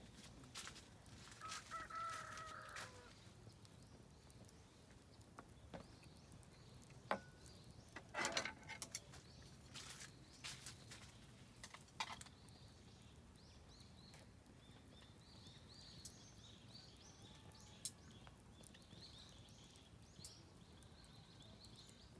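Oak firewood burning in a campfire, crackling faintly with scattered sharp pops, a cluster of them about eight seconds in. A drawn-out bird call sounds about two seconds in, and small birds chirp in quick high series through the second half.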